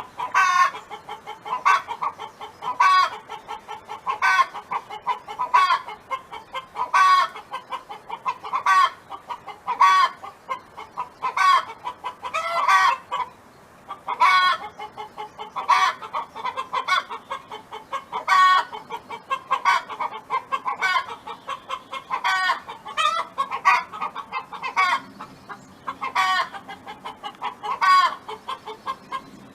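Domestic hen clucking in a steady series of short pitched calls, about one a second, some notes louder and more drawn out.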